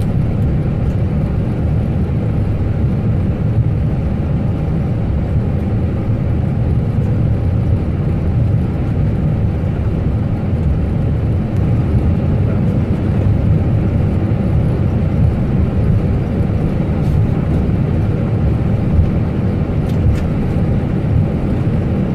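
Airliner cockpit noise: the engines and rushing air make a steady low rumble with no change in level.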